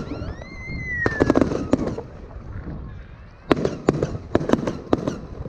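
Fireworks display: a high whistle rises and then slowly falls, a short cluster of sharp bangs comes about a second in, and a quick run of about seven sharp bangs follows past the halfway point.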